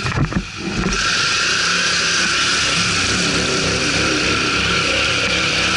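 ATV engine running hard under load, its pitch wavering up and down. It grows loud about a second in and holds steady until near the end.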